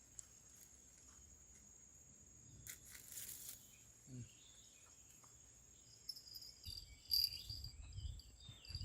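Crickets trilling steadily as a faint, high, unbroken drone. A short rustle comes about three seconds in, and low knocks and handling bumps follow in the last couple of seconds.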